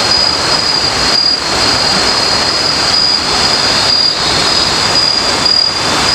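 Night insects in the forest, most likely cicadas or crickets, droning in one steady high-pitched tone over a loud, even hiss.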